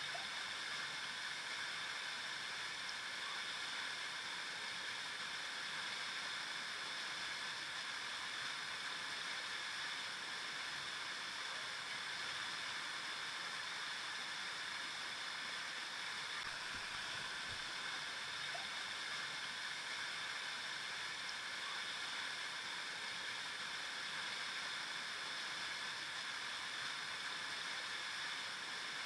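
River water flowing steadily over rocks, an even hiss with no pauses.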